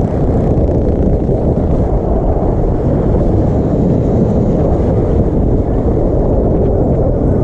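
Wind buffeting the microphone over a small motorbike engine running steadily while riding.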